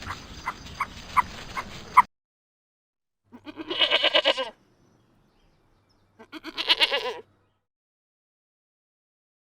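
Two bleats from a sheep, each about a second long and trembling, with a pause of about two seconds between them. Before them, a series of short yelps over background hiss cuts off abruptly about two seconds in.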